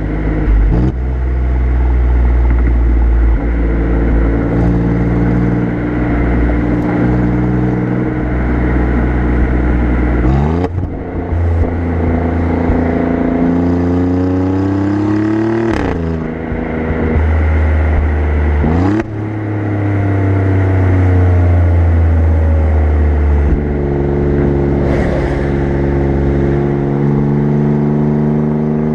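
Exhaust of an Alfa Romeo Giulia Quadrifoglio's twin-turbo V6, heard close up from the rear bumper. The car cruises steadily, then about ten seconds in the revs climb under acceleration, drop sharply at an upshift, climb again and drop at a second upshift, and settle back to a steady cruise.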